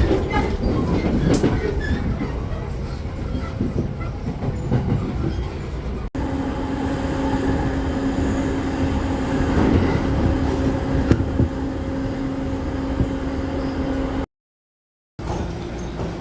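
Train running: a steady rumble and rattle, with a low, even hum through the middle part. The sound breaks off abruptly about six seconds in, and drops out completely for about a second near the end.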